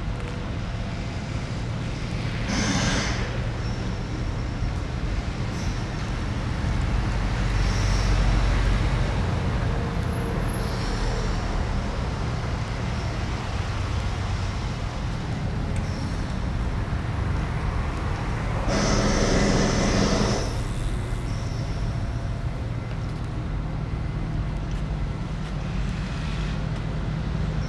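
Street traffic: a steady rumble of passing cars, buses and lorries, with two louder vehicles going by close, about three seconds in and again around nineteen to twenty seconds in.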